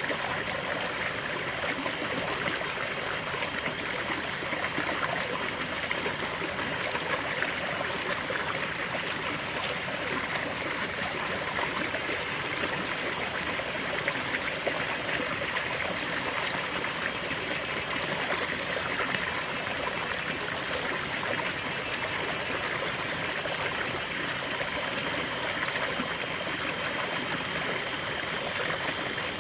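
Small forest waterfall and stream, water flowing and splashing over rocks in a steady, even rush with a trickling, babbling texture.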